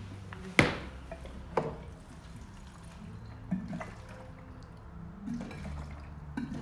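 Gasoline being poured from a gas can into a leaf blower's fuel tank. There is a sharp knock about half a second in and a lighter one a second later.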